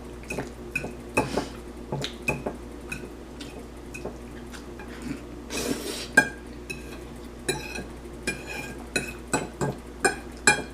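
Fork clinking and scraping against a plate of spaghetti in many short, irregular taps, with a longer hissing noise about six seconds in.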